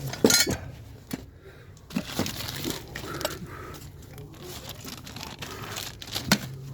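Handling of plumbing tools and parts: scattered sharp knocks and clanks, a quick cluster in the first half second and single ones through the rest, with rustling in between.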